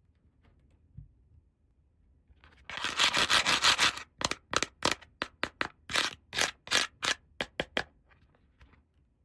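Hands rubbing and scraping plastic toy parts during an unboxing. There is one continuous rub of about a second, then a quick run of about a dozen short scrapes, roughly three a second.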